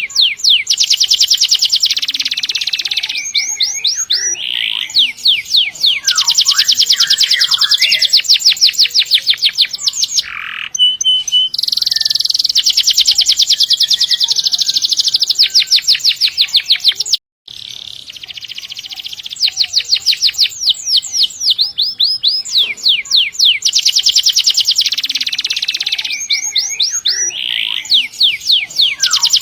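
Domestic canary singing loudly in long rolls: extended trills of fast, evenly repeated high notes, each lasting several seconds, broken by short pauses and a moment of silence a little past halfway.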